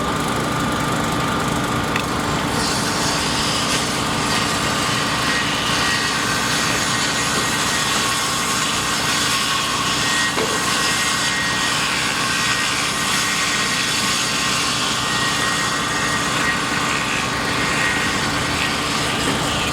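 Construction machinery engine running steadily, a continuous mechanical hum with a few held tones.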